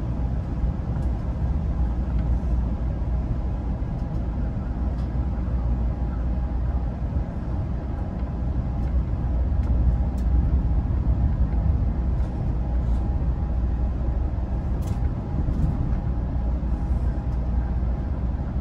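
Steady low rumble of an Amtrak Pacific Surfliner bi-level passenger car running at speed, heard from inside the car. A faint steady whine and a few faint clicks sit over the rumble.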